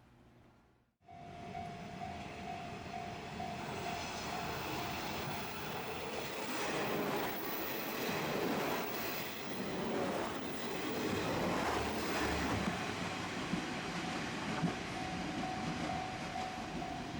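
Diesel train on JR Shikoku's Dosan Line running past a level crossing, loudest in the middle. A level-crossing alarm rings as a steady tone at the start and again near the end.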